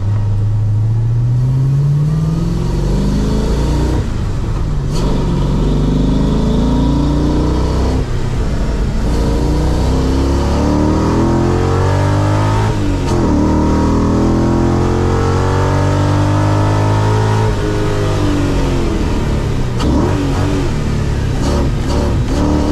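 The Audi V8 swapped into a Porsche 986 Boxster, heard from inside the cabin while it is driven on track. The engine revs up and drops back several times as the car accelerates and slows.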